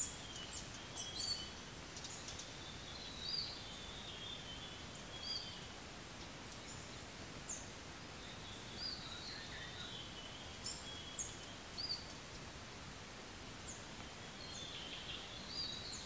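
Wild birds calling: short, high chirps and whistled notes every second or so over a steady hiss of outdoor background noise.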